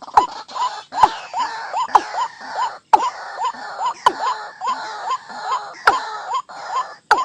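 Mixed calls of white-breasted waterhen and watercock played as a bird-call recording: short hooked notes repeating two or three times a second, with sharp clicks about once a second.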